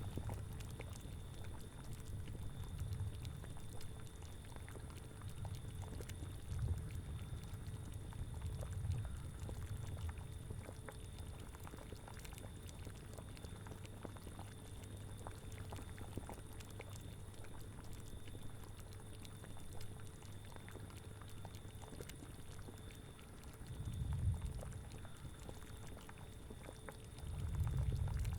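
Cauldron bubbling at a boil, with scattered small pops over a low rumble that swells and fades, rising twice in the last few seconds.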